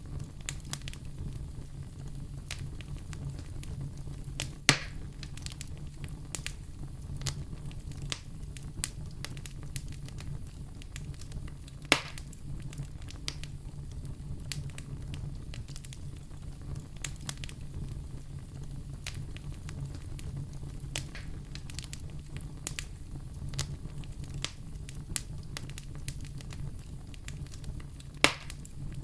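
Wood fire crackling in a fireplace: a steady low rumble of the flames with frequent small ticks and three louder sharp pops, one about five seconds in, one near the middle and one near the end.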